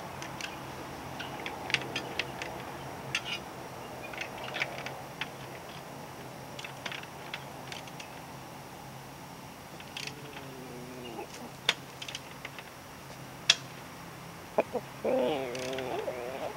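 Scattered sharp metallic clicks and taps of hand tools working loose the exhaust clamp on a motorcycle muffler, over a faint steady low hum. A chicken calls briefly about ten seconds in and again, louder and wavering, near the end.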